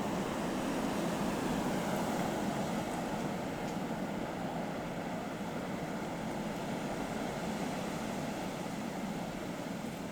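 Steady rushing noise of strong blizzard wind, easing slightly towards the end.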